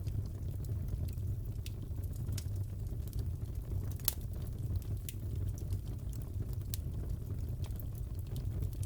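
Crackling fireplace: a steady low rumble of burning wood with scattered sharp pops and crackles, and one louder snap about four seconds in.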